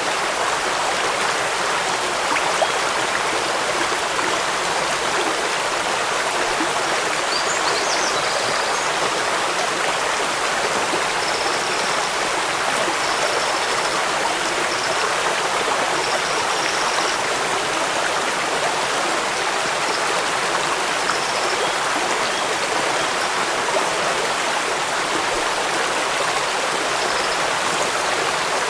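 Steady rushing of a waterfall. A few faint high chirps come through about a third of the way in.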